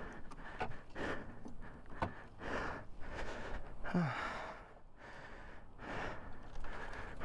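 A man breathing hard in repeated heavy breaths and gasps, with a falling groan about four seconds in: a rider winded and shaken just after crashing his motorcycle.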